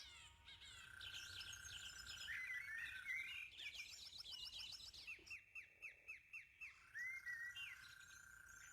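Bird calls: many quick high chirps and tweets, with a held whistle-like note in two stretches and a run of about eight rapid repeated notes in the middle.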